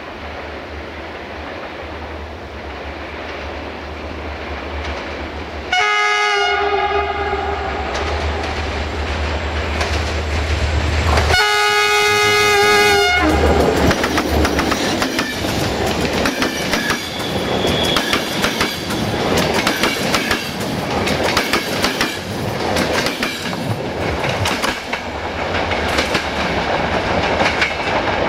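Diesel locomotive approaching and sounding its multi-tone horn twice, each blast about a second and a half long, over a low engine drone that grows louder. After the second blast the train passes close by, with the rumble and clickety-clack of wheels over the rail joints.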